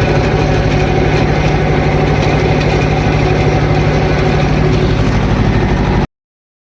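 Swaraj 724 XM Orchard tractor's two-cylinder diesel engine running steadily with an even low pulse, cutting off abruptly about six seconds in.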